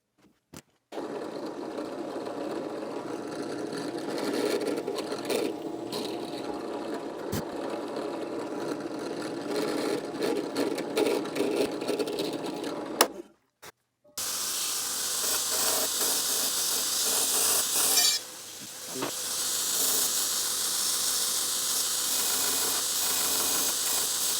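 Steady workshop power-tool noise that stops abruptly about thirteen seconds in. After a second's gap, a steady, hissy noise follows.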